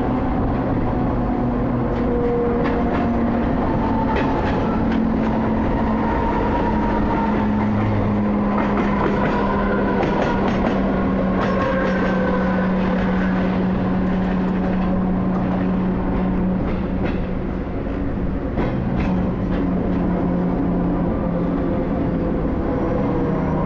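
Mumbai suburban electric local train running along the track: a steady rumble with a low electric hum that slowly shifts in pitch, and scattered clicks of the wheels over rail joints.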